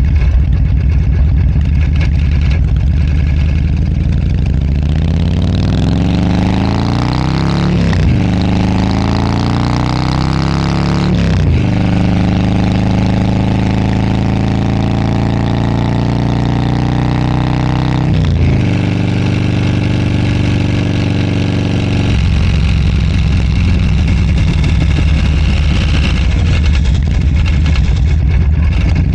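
Motorcycle engine accelerating, its pitch climbing and falling back twice as it shifts up through the gears, then running at a steady cruising speed before easing off to a lower steady note, with wind noise throughout.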